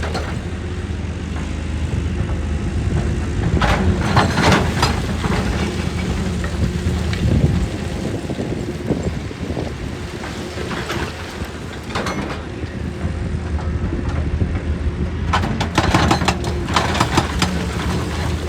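Excavator engine running steadily, with three bursts of rattling and clattering: about four seconds in, around eleven seconds, and near the end.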